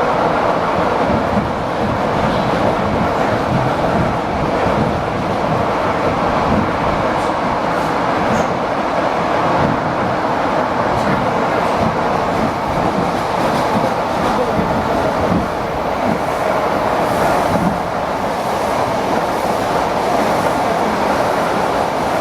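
ED4M electric multiple unit running along the line, heard from inside a passenger car: a steady rumble of wheels on rails.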